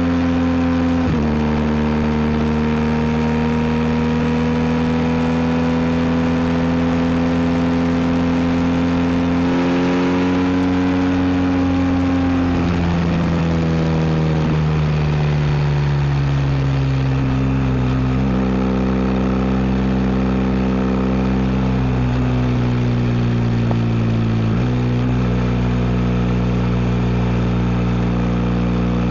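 BMW R1250 GS's boxer-twin engine through an Akrapovic exhaust, running under way at fairly steady revs. The pitch drops suddenly about a second in, sinks slowly from about halfway as the revs fall, and then steps up and down again a few times near the end.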